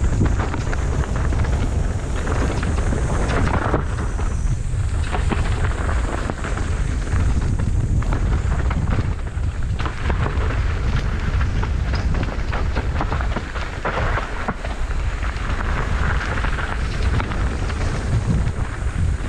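Wind buffeting the microphone over a steady rumble and clatter of tyres on a rough trail, as a bike rides downhill at speed.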